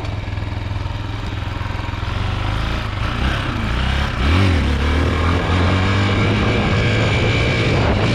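Chinese 250cc dirt bike engine running hard under throttle while ridden. About four seconds in the pitch dips briefly, then climbs and gets louder as it revs again. The engine bogs as the front wheel comes up, which the rider puts down to its carburetor.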